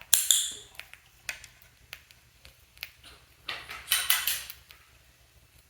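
A cockatiel giving a short high chirp near the start, then light clicks and taps from its beak and feet during target training, with a quick run of taps about four seconds in.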